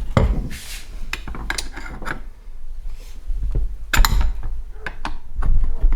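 Screwdrivers clinking and scraping against a double drive-belt pulley as it is levered apart at its bearings, with a run of sharp metal taps, the loudest about four seconds in.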